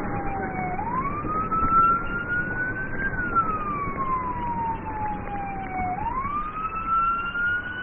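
Police car siren on a slow wail, its pitch climbing and falling in long sweeps of about five seconds, over steady engine and road noise, sounding during a vehicle pursuit.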